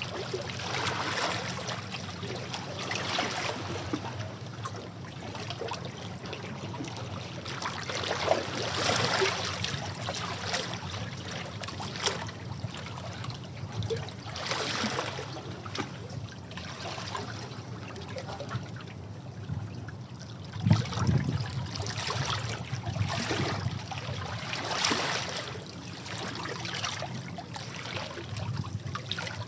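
Sea waves washing over rocks: water surging in and draining back in irregular swells every few seconds, with one louder splash about two-thirds of the way through.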